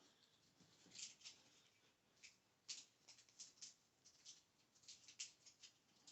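Quiet, irregular light taps and clicks, about fifteen of them, from fingers tapping on trading cards and small collectible items.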